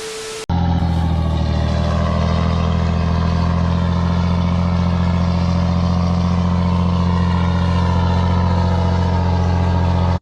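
A vehicle engine running steadily and loudly, beginning abruptly about half a second in after a short cut.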